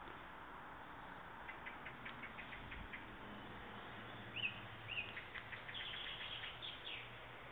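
Small birds chirping faintly over a steady hiss: runs of quick short chips, two louder short calls about four and five seconds in, then a fast series of chirps near the end.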